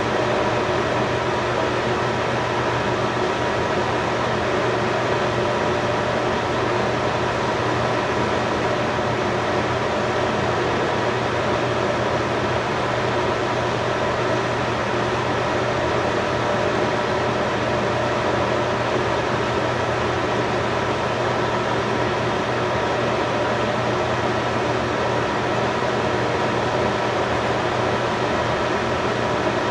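Steady mechanical hum: an even noise with several fixed tones, unchanging throughout.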